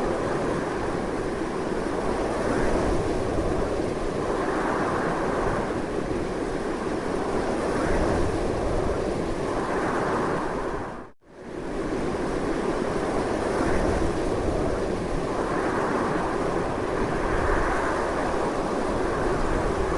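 Strong, continuous wind blowing, a steady rushing noise that swells and eases gently. A little past halfway it fades out almost to silence for a moment and then returns at full strength.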